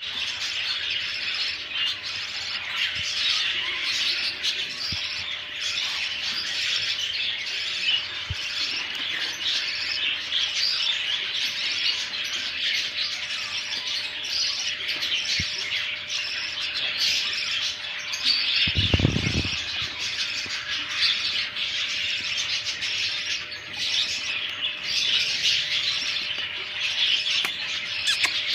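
A crowd of lovebird and budgerigar chicks chirping continuously, many high calls overlapping into a dense chatter. A brief low rumble sounds about two-thirds of the way through.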